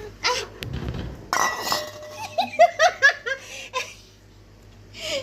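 A person laughing: a quick run of short, high giggles about two seconds in, after a few short rustling bursts.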